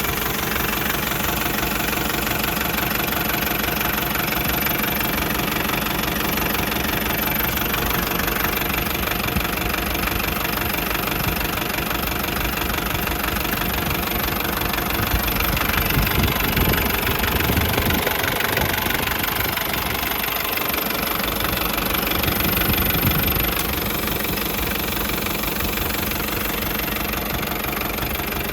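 Nissan ED30 diesel engine of a Nissan Cabover C240 dump truck running with a clattering diesel knock; engine speed wavers up and down about halfway through, then settles back to idle.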